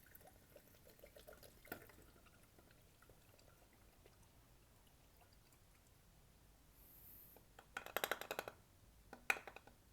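Faint pour of oil-system cleaner from its bottle into the engine's oil filler, trickling and dripping. A single click comes about two seconds in, a quick run of clicks around eight seconds, and another click near the end.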